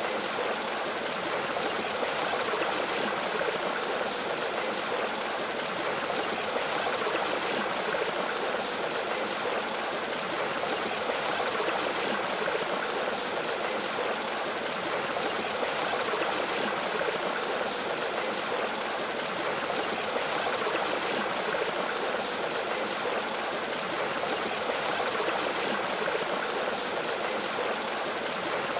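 Mountain stream flowing steadily over rocks with a small waterfall: an even, unbroken rush of water.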